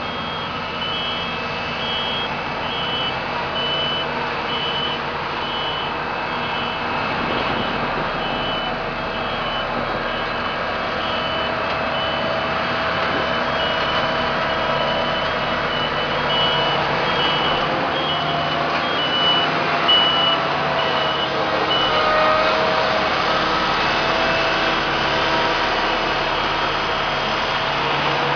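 A construction vehicle's reversing alarm beeps over and over above the steady noise of heavy machinery running. The beeping stops about 22 seconds in, and the machinery runs on.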